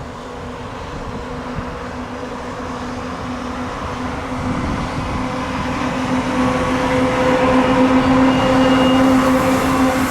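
A train approaching and growing steadily louder: a rumble with a steady hum running under it.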